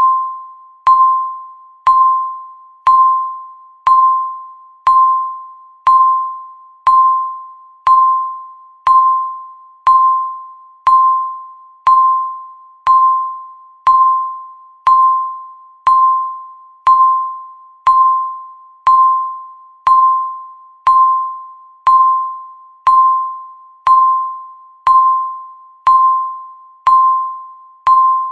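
Countdown timer beeping once a second: a short, clear electronic beep at one steady pitch that rings briefly and fades before the next.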